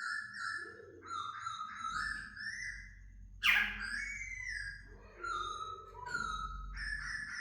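Laughingthrush singing a run of clear whistled phrases, with a loud, sharp falling note about three and a half seconds in.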